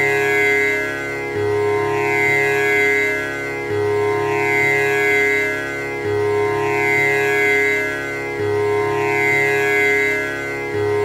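Tanpura drone: its strings plucked in a repeating cycle that renews about every two and a third seconds, the notes overlapping into a continuous sustained hum with a shimmering upper ring.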